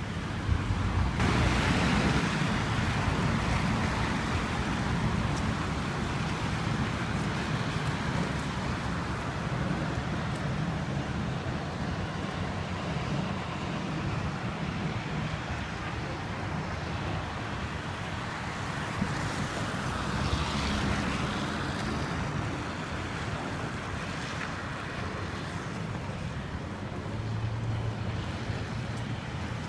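Steady rushing noise of storm wind and water, with wind buffeting the microphone in a deep rumble; it swells louder for a few seconds shortly after the start.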